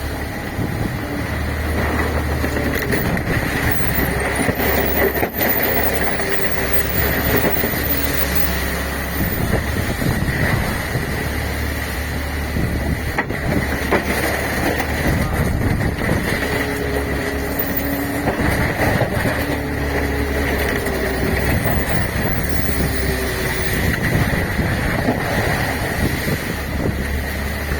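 Fishing boat's engine running steadily with a constant high whine over it, with wind buffeting the microphone.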